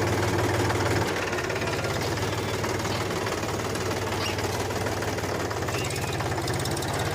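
Mini tractor's engine running with a steady, rapid chugging beat, dropping a little in loudness about a second in.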